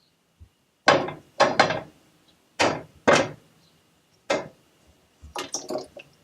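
A series of about seven sharp knocks at irregular intervals, each ringing briefly, with a quick run of smaller knocks near the end: hard kitchenware being knocked against a hard surface while cooking.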